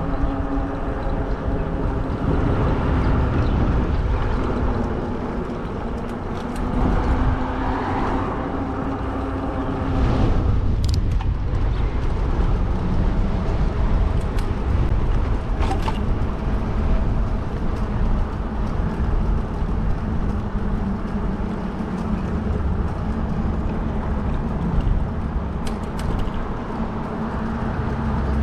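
Riding noise from a fat-tire e-bike in street traffic: a heavy rumble of wind on the microphone, a steady hum through roughly the first third, and a few sharp clicks.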